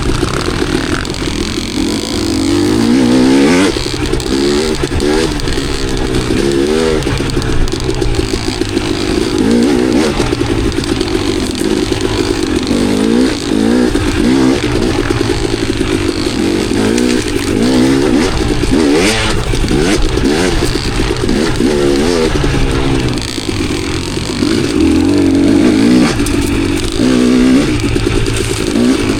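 Enduro dirt bike engine being ridden on a trail, its revs rising and falling again and again with the throttle, with scattered clattering knocks from the bike.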